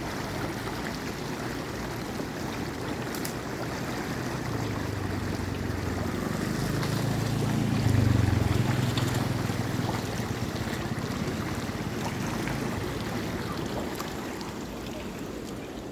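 Steady rush of flowing water. A low motor hum swells to its loudest about eight seconds in, then fades away.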